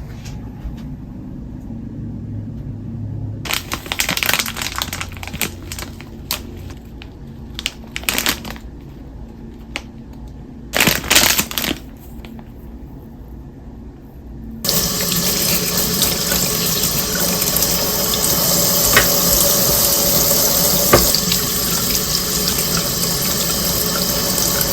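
Household knocks and clatter, then a tap turned on about fifteen seconds in, with water running steadily into a sink.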